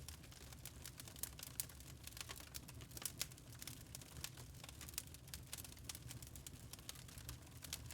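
Log fire crackling in a fireplace: quick, irregular snaps and pops of burning wood over a low steady rumble.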